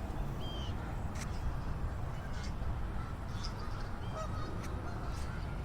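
Geese honking in the distance, a few short scattered calls, over a steady low rumble of wind on the microphone.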